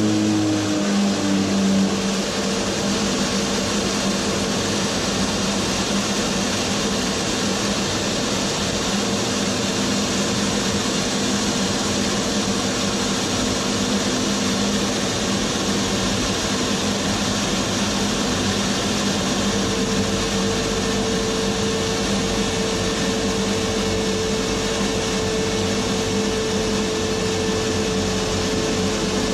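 A metalworking machine tool running steadily with a constant motor hum, likely while taking a cut in steel. One of its tones shifts slightly about two-thirds of the way through.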